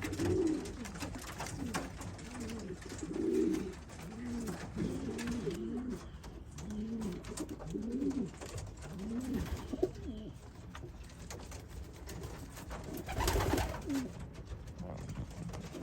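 Racing pigeons at the loft cooing over and over, each coo rising and falling in pitch. A short louder burst of noise comes about 13 seconds in.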